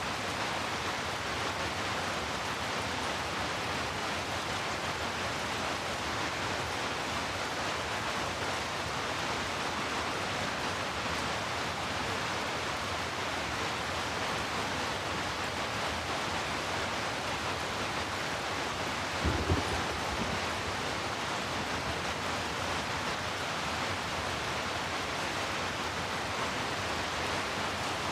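Steady rain, an even hiss. About two-thirds of the way through there is a brief low thump, the loudest moment.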